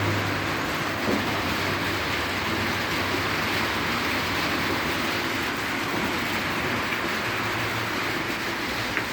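Steady rain falling, an even continuous hiss with a faint low hum underneath.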